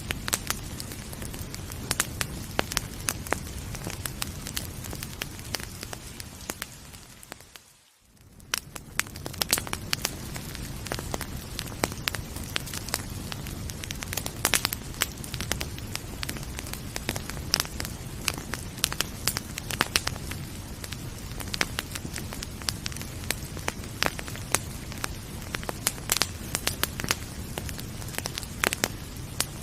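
Wood fire crackling and popping in a fireplace, many sharp snaps over a steady low rumble. About eight seconds in, the sound fades almost to nothing and swells back.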